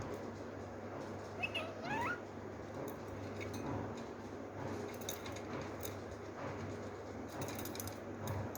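Pet lovebird giving a couple of short rising calls about a second and a half in, with scattered soft clicks after them.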